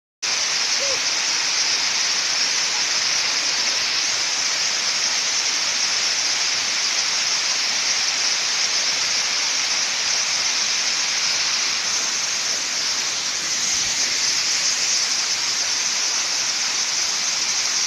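Waterfall: water pouring steadily over rock, an even, hissing rush that does not change.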